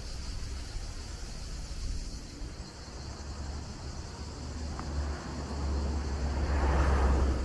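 Outdoor summer ambience: steady high-pitched insect chirring over a low rumble of wind on the microphone. A broad rushing noise swells and peaks near the end.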